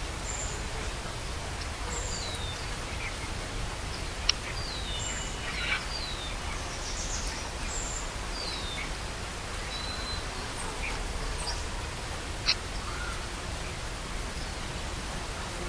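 Small birds chirping outdoors: scattered short high chirps and quick falling whistles over a steady hiss, with a sharp click about four seconds in and another near the end.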